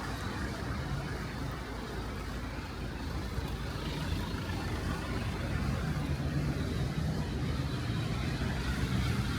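City street traffic in the rain: a steady hiss of rain and wet road, with a motor vehicle's low engine hum growing louder over the second half.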